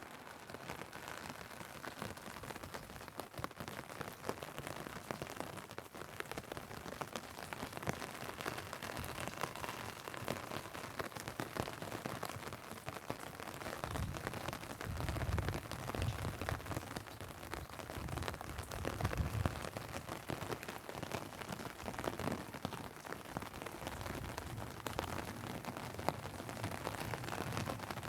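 Steady rain falling on an umbrella and pavement, with many sharp drop ticks and some low rumbles about halfway through.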